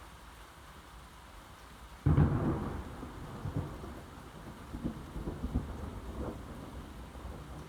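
A sudden thunderclap about two seconds in, loudest at its start, then rolling thunder that rumbles and crackles on as it slowly eases, over rain.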